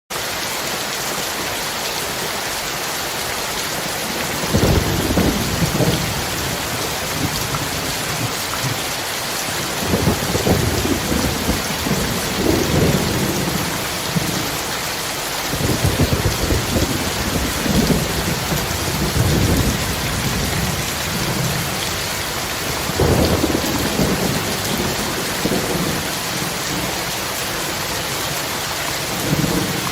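Steady rain hissing throughout, with low rolls of thunder rumbling every few seconds from about four seconds in.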